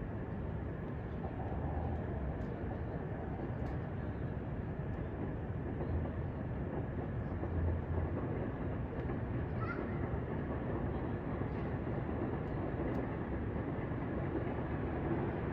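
Distant rail-yard and city ambience: a steady low rumble of trains and traffic, with no single event standing out.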